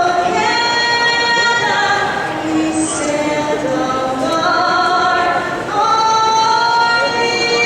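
A woman singing a national anthem in long, held notes that step from pitch to pitch.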